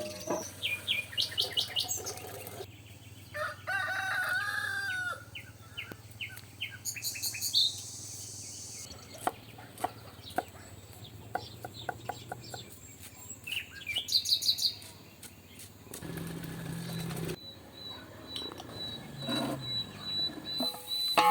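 Birds chirping and calling in quick series of short sliding notes, with one longer held call a few seconds in, mixed with scattered sharp clicks and knocks.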